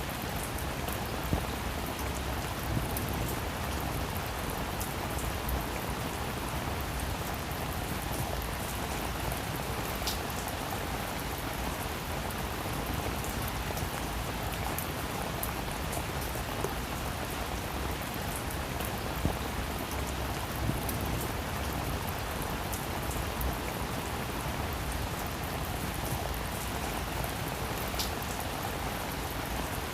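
Heavy rain falling steadily on a surface, an even hiss with scattered sharp drop impacts.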